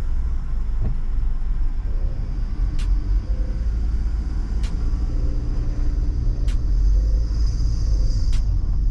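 Car being driven: a steady, heavy low rumble of engine and road, with a few faint sharp clicks about two seconds apart.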